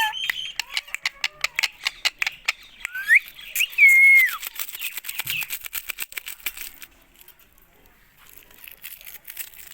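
Indian ringneck parrot whistling two calls about three seconds in, one rising and one held then falling away, over a quick run of sharp clicks that dies down after about seven seconds.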